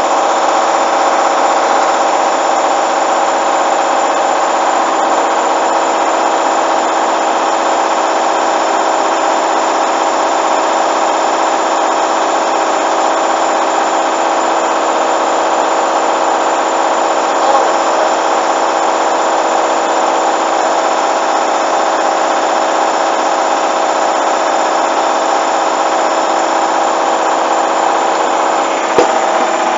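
Hoover washing machine spinning at high speed in its final spin, a steady motor whine with drum rumble that holds at one pitch.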